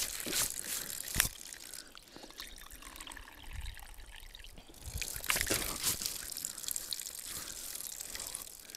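Water trickling and splashing, with a couple of sharp splashes about a second in and a louder, fuller stretch around five to six seconds.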